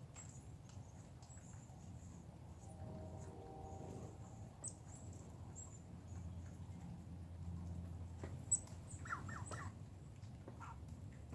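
Quiet outdoor ambience with a steady low rumble and faint scattered high ticks, a brief buzzy tone around three seconds in, then a sharp click and a quick run of falling chirps from a small animal about nine seconds in.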